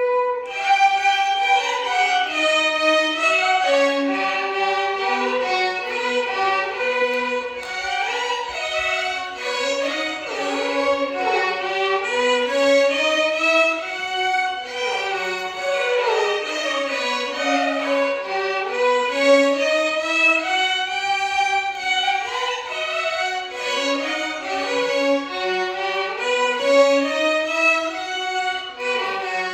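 A violin ensemble playing a Carnatic melody in unison, with flowing, gliding phrases that move continuously up and down in pitch.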